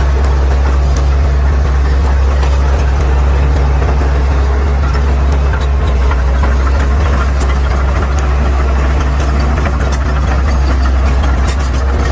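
Caterpillar D6R XL bulldozer's diesel engine running steadily with a deep, even drone, with light scattered clicks over it.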